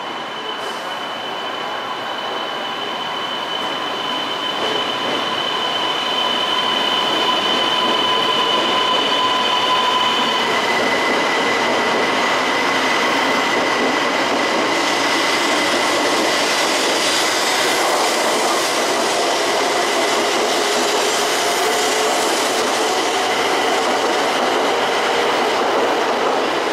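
E2 series Shinkansen pulling out and accelerating past, growing louder over the first several seconds. A steady high whine changes pitch about ten seconds in, and running and wheel noise builds as the cars go by.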